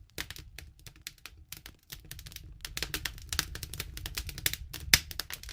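Wood campfire crackling, with irregular sharp snaps and pops and one louder pop about five seconds in, over a low steady rumble that swells from about two seconds in.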